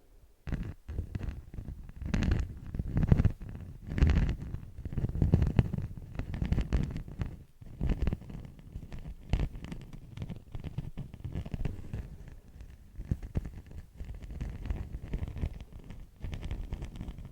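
Beeswax wraps crinkled and handled, a dense, irregular crackling with low rumbly handling noise, loudest a few seconds in.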